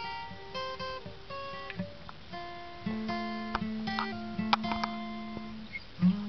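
Acoustic guitar being played: single plucked notes and chords ringing out one after another, with a low bass note that starts about three seconds in and is held.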